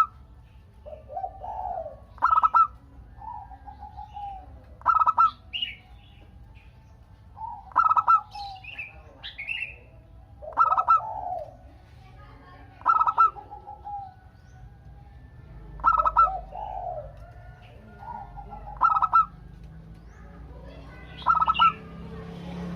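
Zebra dove (perkutut) singing its cooing song, the same phrase repeated about every two and a half to three seconds: a pair of sharp, loud notes followed by lower rolling coos. A few higher chirps come in between.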